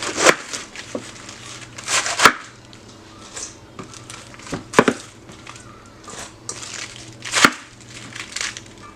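Knife cutting through crisp lettuce onto a cutting board: a few separate crunchy cuts a couple of seconds apart, with leafy crinkling between them.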